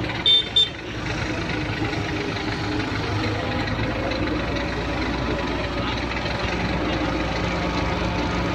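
Excavator diesel engine running steadily. Two short, sharp, high-pitched sounds come near the start.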